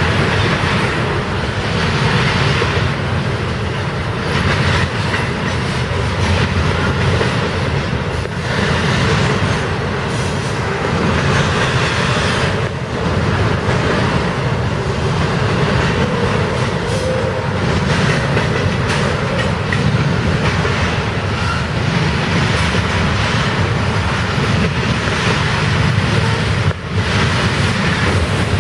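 Canadian Pacific freight train rolling past: a steady rumble of steel wheels on the rails, with scattered clacks over the rail joints.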